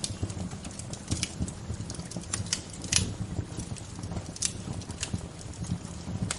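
Wood fire crackling: irregular sharp snaps and pops, the loudest about three seconds in, over a steady low rumble of the flames.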